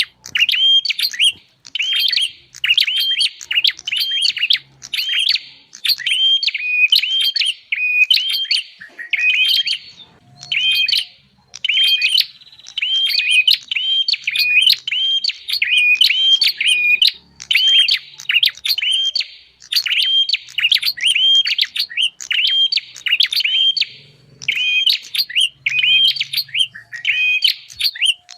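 Prenjak (prinia) song used as a bird-trapping lure call: rapid high chirps repeated several times a second, in runs broken by short pauses.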